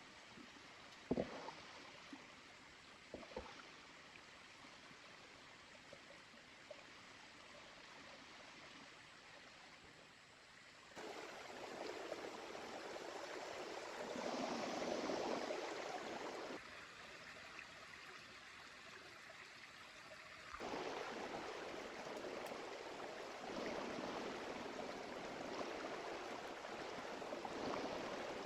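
A small river flowing, an even rush of water. A few sharp knocks come about a second in and again about three seconds in, and the water sound jumps louder about eleven seconds in, then changes level abruptly twice more.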